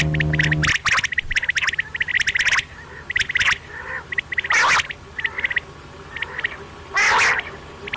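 Quail calling: rapid trains of short clicking notes repeated again and again, broken by loud harsh rasping calls just after the start, about halfway and near the end. A low steady hum cuts off under a second in.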